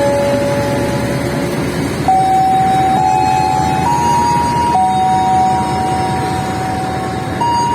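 Station loudspeaker playing a slow melody of long held electronic tones, two notes at a time, stepping to new pitches every second or two, over a steady low rumble. It is a departure melody for a train about to leave.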